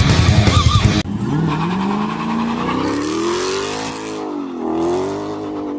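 A vehicle engine accelerating. Its pitch climbs steadily for about three seconds, drops briefly as if at a gear change, then rises again and holds. It follows about a second of heavy-metal music that cuts off abruptly.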